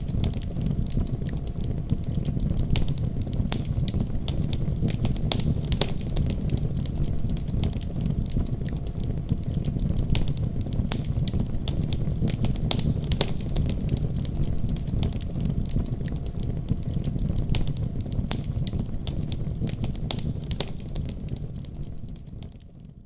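A fire burning in a fireplace: a steady low rumble of flames with frequent, irregular sharp crackles and pops. It fades out near the end.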